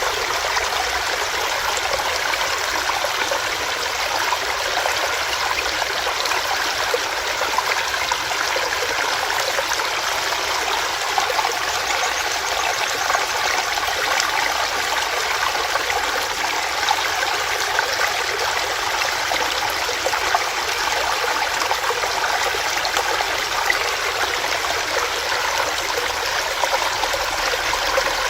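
Small rocky stream running steadily, water splashing and burbling over rocks.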